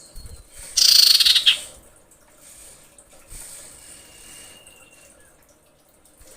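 Female common iora calling: a loud, rapid buzzy chatter about a second in, then a long, thin, steady whistle a few seconds later.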